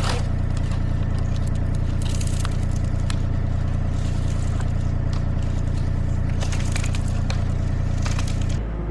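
Engine of a digging machine running steadily with a low hum, with scraping and crackling as soil is dug for a water-line trench.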